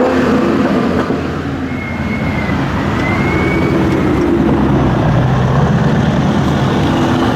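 Car engines running steadily at low revs, a deep rumble with no revving.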